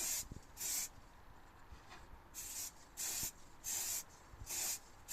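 Primer being sprayed in about six short hissing bursts, each roughly a third of a second long, with short pauses between them.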